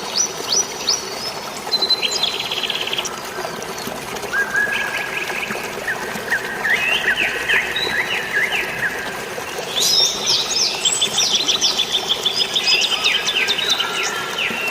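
Several songbirds chirping and trilling in quick runs of short notes, busiest in the second half, over a steady rush of flowing water.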